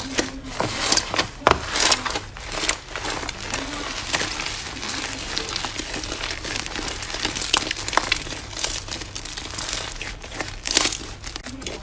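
Dense, irregular crackling and crunching: many small sharp snaps close together as a crisp material is worked by hand.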